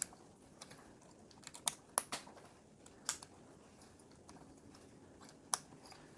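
Plastic Lego bricks being handled and snapped together: a handful of sharp, scattered clicks, irregularly spaced.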